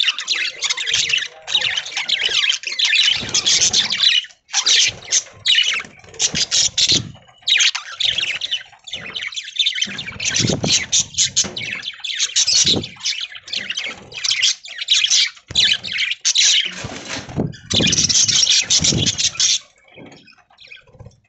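Many budgerigars chattering in rapid, overlapping high calls, thinning out near the end.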